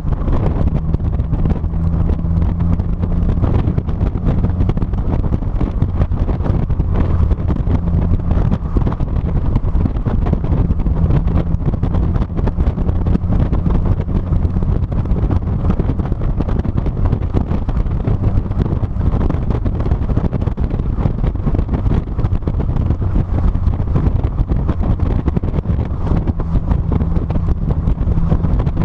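Heavy wind buffeting on the microphone of a trunk-mounted action camera on a moving 2006 NC Mazda Miata, over the car's steady engine hum and road rumble at cruising speed.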